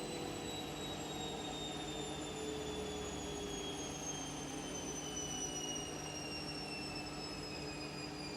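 Washing machine running, its motor whine falling slowly and steadily in pitch over a low hum as the drum slows down.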